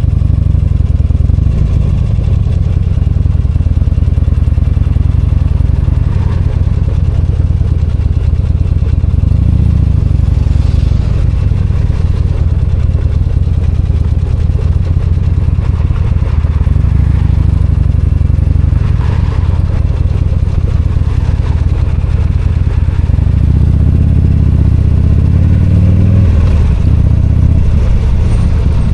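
V-twin motorcycle engine running under way, a steady low rumble whose note rises and falls several times as the bike accelerates and eases off.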